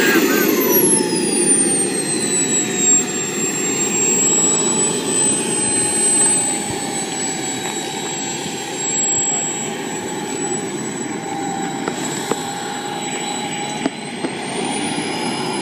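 Model jet turbine engine of an RC jet running with a loud whine over a steady rush. Its pitch falls over the first few seconds and then holds steady, rising briefly and settling again near the end.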